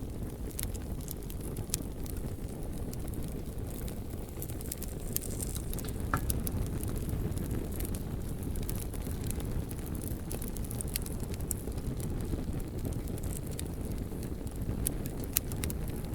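Wood campfire crackling, with frequent sharp pops at irregular moments and a louder pop near the end, over a steady low rumble.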